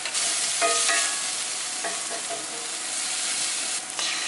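Bacon, peppers and onion sizzling steadily in a cast-iron skillet, with a couple of short ringing clinks about a second in and again around two seconds. The sizzle changes near the end as beaten eggs start to go into the pan.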